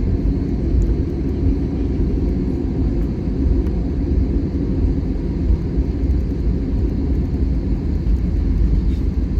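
Airbus A320-200 cabin noise: a steady low rumble of the engines and airframe, heard from inside the cabin.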